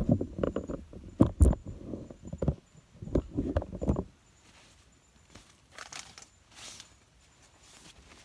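Dull knocks and rustling of a person shifting about and settling down to lie in a shelter, lasting about four seconds and then dying away to faint rustles.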